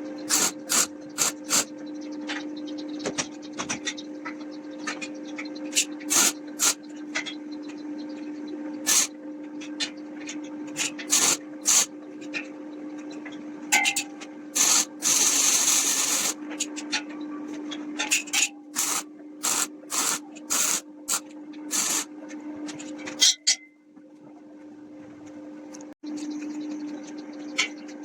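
Hand work on wood: a series of short rasping strokes at an irregular pace, with one longer stroke about halfway through, over a steady low hum.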